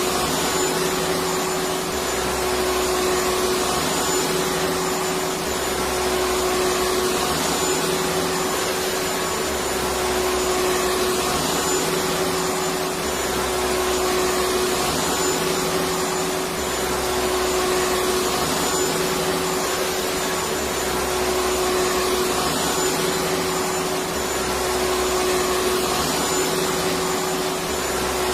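Vacuum cleaner running continuously: a dense rush of air with a steady motor hum and a faint high whine, swelling and easing slightly every couple of seconds.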